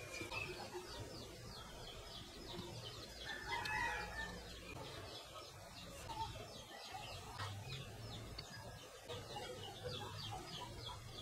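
Faint bird calls in the background: a fast, high chirping repeats, and a single louder call comes about three and a half seconds in.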